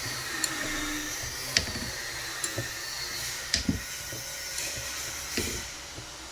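Small electric power-tool motor running with a steady hiss and high whine, with about six sharp knocks and clicks at uneven intervals. The high whine fades near the end.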